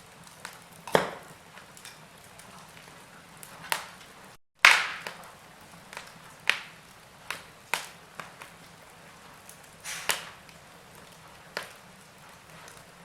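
Wood fire crackling in a fireplace: sharp snaps and pops every second or two over a faint steady hiss. A brief gap of silence comes about four and a half seconds in, followed by the loudest pop.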